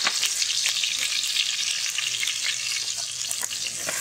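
Chopped green chillies sizzling in hot oil in a black iron kadai: a steady frying hiss with many small crackles.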